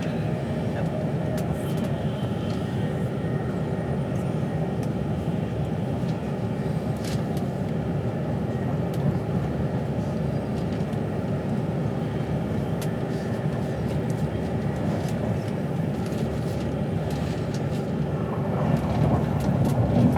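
Steady low rumble of a passenger train running along the line, heard from inside the carriage, with a faint steady hum and occasional light clicks.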